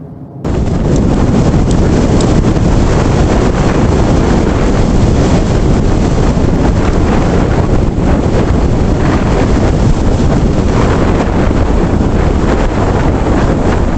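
Loud, steady wind noise buffeting the microphone, cutting in abruptly about half a second in.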